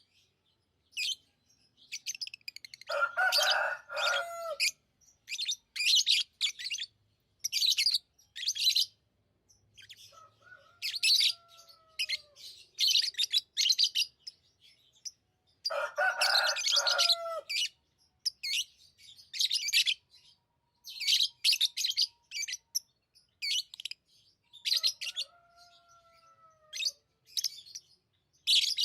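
Pet lovebirds chirping in clusters of quick, shrill, high-pitched chirps with short gaps between them. Twice, a lower, longer call sounds under the chirping, a few seconds in and again about halfway.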